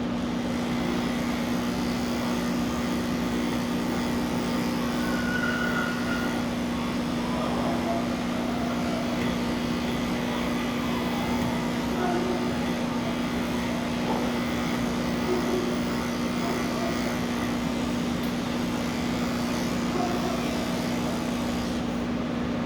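Electric grooming clippers running with a steady, unchanging hum.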